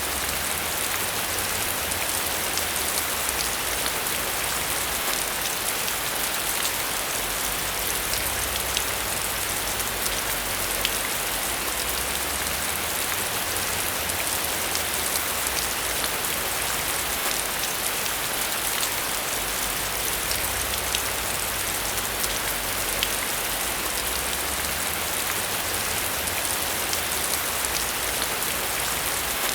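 Steady rain falling on surfaces, an even hiss with scattered sharp drop ticks and a low rumble underneath.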